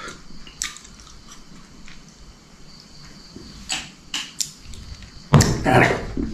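Close-up eating and drinking noises: scattered small mouth clicks and smacks, then a louder, longer sound about five seconds in.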